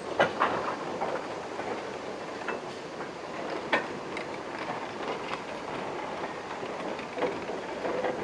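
A train running along the line: a steady rumble of wheels on rail with irregular sharp clacks over the rail joints, one sharper clack near the middle.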